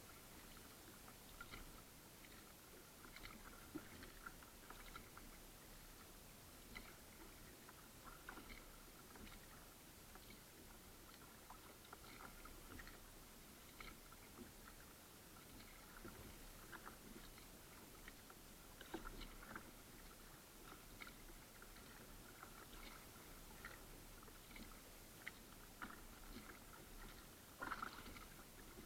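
Faint water sounds of kayak paddling: small splashes and drips from the paddle, heard as scattered light taps over a low hiss, with a slightly louder splash near the end.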